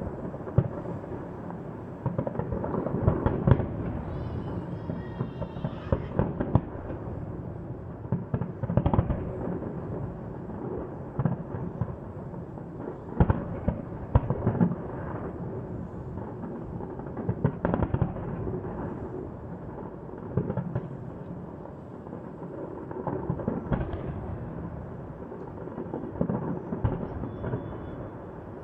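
Fireworks display: aerial shells bursting in a run of sharp booms, one every second or so, with a continuous rumbling echo between them.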